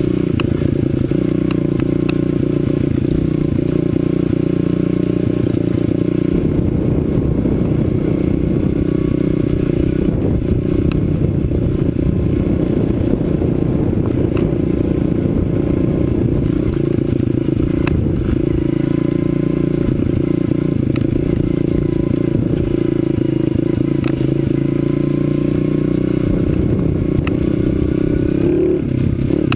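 2008 CRZ 125 Pro pit bike's single-cylinder four-stroke engine running under way at a fairly even pitch, with many small knocks and rattles running through it.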